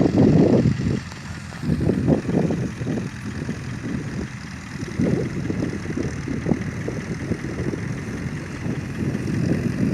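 Dump truck engine running, a low, uneven rumble that swells and dips, loudest in the first second.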